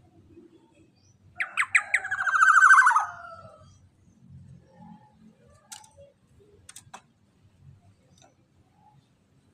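Black-naped oriole calling: a few sharp notes, then a long harsh, rasping call that falls in pitch at its end, starting about a second and a half in. Faint ticks follow later.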